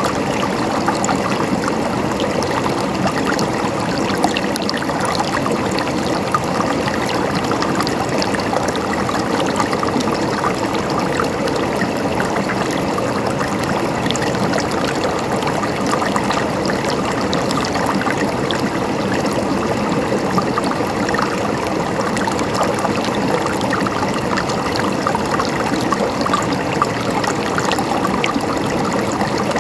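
Water flowing and gurgling steadily over rocks in a stream, with many small splashes and trickles.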